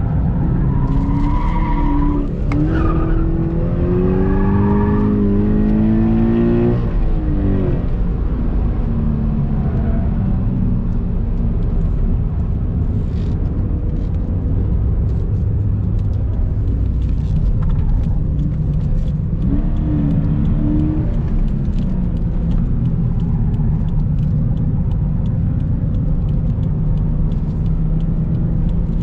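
Subaru BRZ's flat-four engine pulling hard, its pitch climbing for several seconds before falling away. It then runs steadily under a constant low road and tyre rumble, with another brief climb in revs about two-thirds of the way through.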